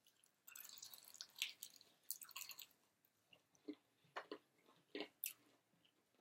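Faint close-up chewing of crispy fried chicken wings: a stretch of crisp crunching in the first couple of seconds, then scattered wet mouth clicks and lip smacks.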